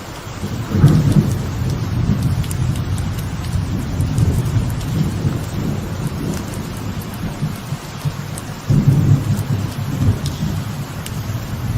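Steady light rain falling with thunder rumbling overhead: a low rumble builds about a second in, rolls on, and swells again near the end.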